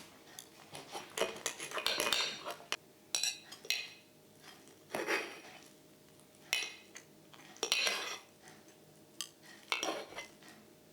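Irregular clinks, clatters and scrapes of hard objects being handled and set down, a dozen or so short sounds in uneven bursts.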